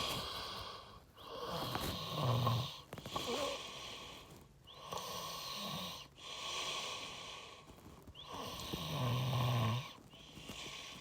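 A person breathing heavily with a snoring rasp close to the microphone, one noisy breath roughly every two seconds.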